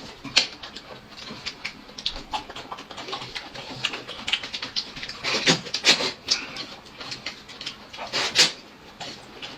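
Someone eating noisily: a steady run of small mouth clicks and smacks, with a few louder bursts around the middle and near the end.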